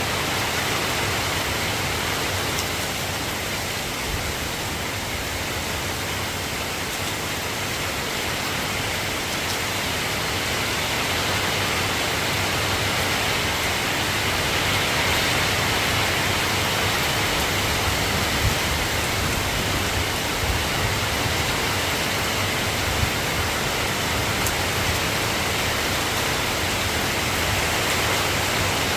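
Soft rain falling steadily, an even hiss with a few sharper drop ticks in the second half.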